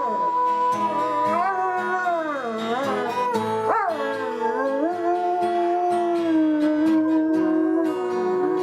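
A dog howling in long, wavering notes over music with a steady beat.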